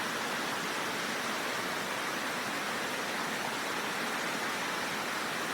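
Steady, even rushing-water noise, of the kind floodwater or heavy rain makes, with no separate splashes or other events standing out.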